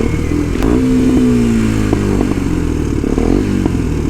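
Kawasaki Ninja 125's single-cylinder four-stroke engine running on the road. Its pitch jumps up about half a second in, then falls steadily over the next three seconds, with a few sharp clicks along the way.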